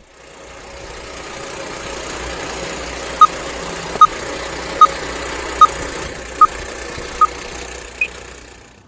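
Steady mechanical whirring hiss, like a running film projector, with six short, loud, evenly spaced beeps about 0.8 s apart and then one higher beep: a film-leader countdown opening a mock 1930s newsreel.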